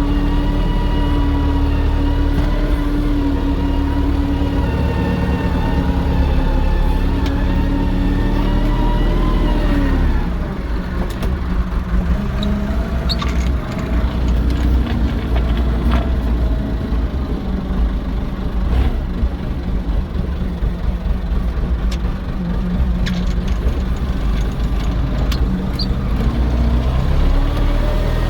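Diesel tractor engine running steadily under throttle, then dropping to a lower note about ten seconds in and carrying on there, with a few sharp knocks or clanks of metal over it.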